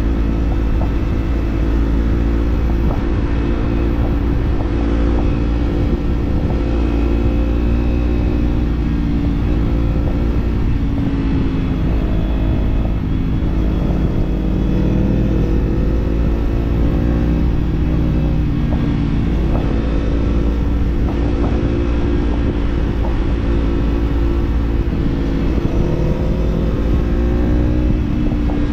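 Kawasaki Z-series parallel-twin motorcycle engine running on the road through an aftermarket slip-on exhaust. Its pitch rises and dips gently with the throttle, over a steady low rumble.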